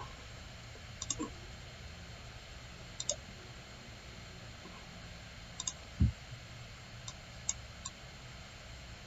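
Computer mouse buttons clicking now and then, several times as quick double clicks, over a steady low hum. A single dull low thump about six seconds in.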